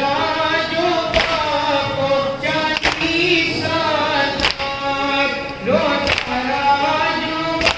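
Group of mourners chanting a Shia noha (lament) in chorus, with long drawn-out notes. A sharp beat cuts through about every second and a half.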